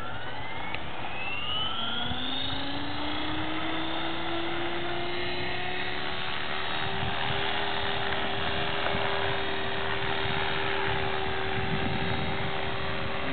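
Electric E-sky Belt CP radio-controlled helicopter's motor and rotor whining as they spool up, the pitch rising over the first two seconds or so. It then runs at a steady pitch while the helicopter holds a hover.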